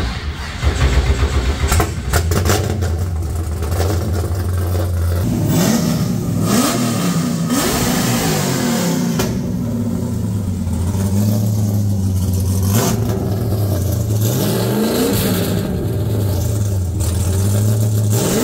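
LS V8 in a New Edge Mustang, running loud through a straight-piped single 3-inch exhaust with no muffler. It starts up, settles into a steady idle, and from about five seconds in is revved in several short throttle blips.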